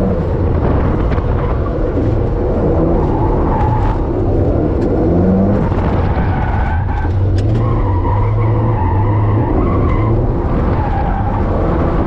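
Car engine running hard with tires skidding and squealing through a drift, on pavement that is patchy and wet in spots. A wavering squeal comes and goes over a steady low engine drone.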